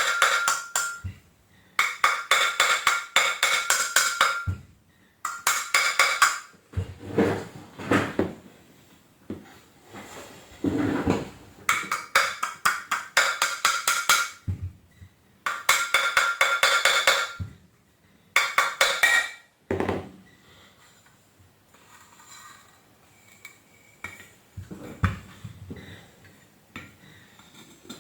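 Hand tools working on the metal parts of a Panasonic MC-CJ911 vacuum cleaner's motor. There are bursts about two seconds long of rapid metallic ticking and scraping with a ringing tone, with pauses between, and fainter rubbing near the end.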